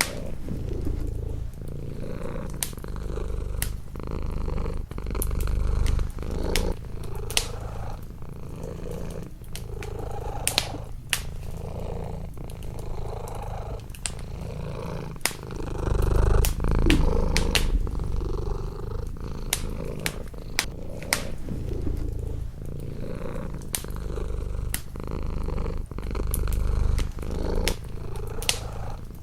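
Domestic cat purring close up, the purr swelling and easing with each breath. Sharp pops and crackles of a wood fire burning in a fireplace are scattered throughout.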